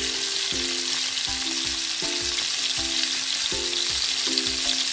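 Breaded pork chops deep-frying in hot cooking oil in a wok: a steady sizzle and crackle of bubbling oil.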